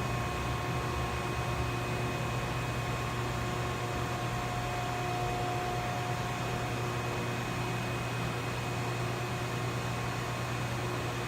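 Vertical cardboard baler's 10 HP Baldor three-phase electric motor and hydraulic pump running steadily: an even electric hum with a few faint steady whine tones above it.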